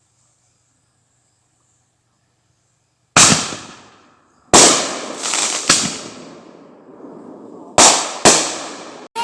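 Fireworks going off: five loud bangs starting about three seconds in, each with a trailing rumble, and a few smaller pops between the second and third.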